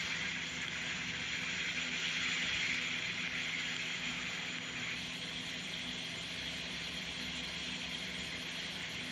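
Steady rushing storm noise, an even hiss that eases slightly about halfway through, with a faint low steady hum underneath.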